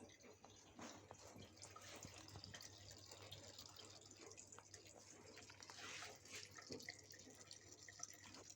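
Faint trickle of a thin stream of water running from a faucet, with scattered small drips and ticks.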